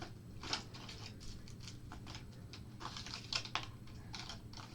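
Irregular light clicks and taps of small plastic pieces being handled: an HO-scale model train and its packaging.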